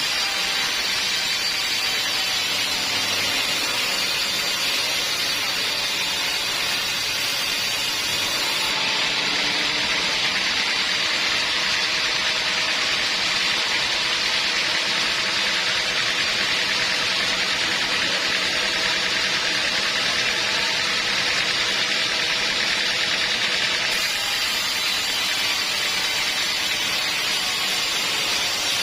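Sawmill machinery running, a steady loud hissing noise without breaks.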